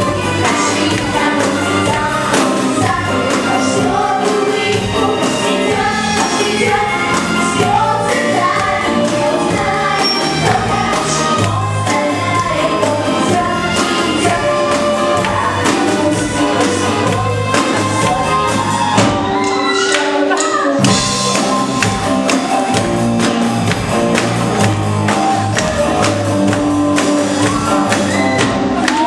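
A band playing a song live, with singing over a steady drum beat and bass. The bass drops out briefly about two-thirds of the way through.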